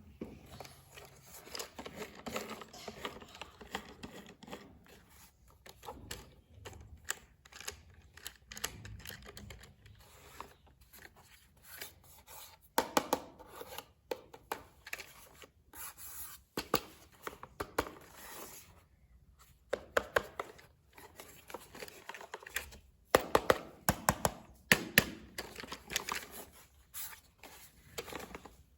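Packaging being opened and handled by hand: irregular rustling, rubbing and tearing, with many sharp clicks and taps, in louder bursts about halfway through and again near the end.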